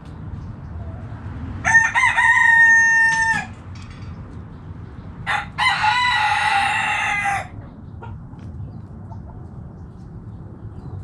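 Rooster crowing twice, each crow a long call of about two seconds, the second starting about three and a half seconds after the first ends.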